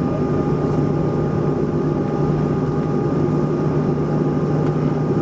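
Steady cabin drone of a Boeing 737-400 with its CFM56 jet engines running: an even rushing noise with a low hum and fainter steady whining tones above it.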